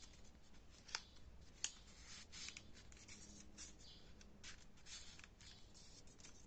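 Faint rustling of folded paper units with short crisp clicks as they are handled and pushed into place in a 3D origami build, two sharper clicks about a second and a second and a half in.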